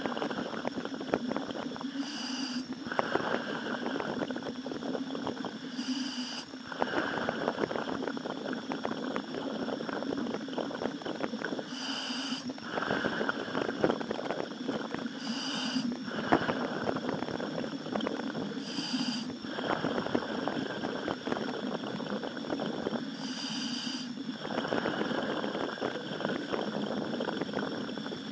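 A diver breathing through a helmet demand valve, heard over the dive radio: a short hiss on each breath in, every four seconds or so, then a longer crackling rush of exhaled bubbles.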